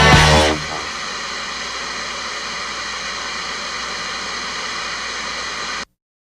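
Rock music stops within the first half-second, leaving a steady hum and hiss of a fishing boat's engine noise, which cuts off abruptly near the end.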